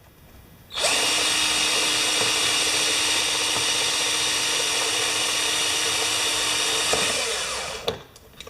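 Power drill running steadily, drilling a rivet hole through a repair plate on a compressor's oil sump cover; it starts about a second in and winds down near the end.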